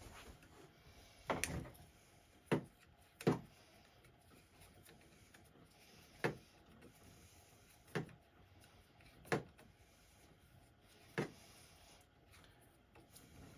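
About seven sharp clicks and light knocks, spaced irregularly a second or two apart: small screws and tools being handled while an air rifle is taken apart on a bench.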